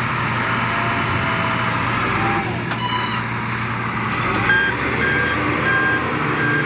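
Heavy truck engine running steadily. From about four and a half seconds in, a reversing alarm beeps repeatedly, about two beeps a second. A brief horn-like tone sounds near the middle.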